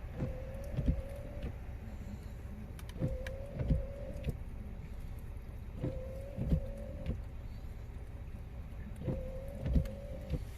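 Truck's windshield wipers sweeping four times, about every three seconds. Each stroke is a motor whine of about a second with a thump as the blades reverse, over a low steady rumble.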